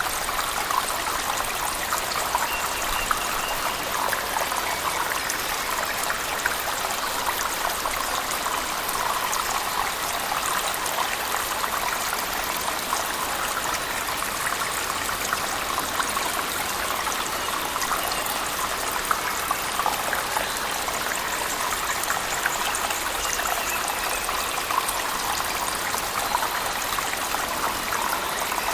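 Cave waterfall and heavy rain: a steady rush of falling water with many small splashes and drips, unchanging in level.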